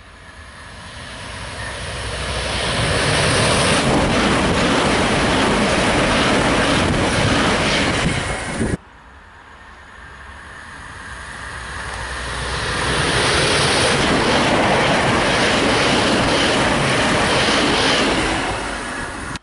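Two Great Northern electric multiple-unit trains passing at speed, one after the other, each a rush of wheel and rail noise that builds over a few seconds to a steady loud roar. The first cuts off suddenly about nine seconds in; the second fades away near the end.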